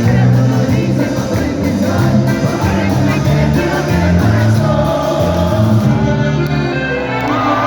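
Live cumbia band playing an instrumental passage of the song at full volume, over a steady, prominent bass line.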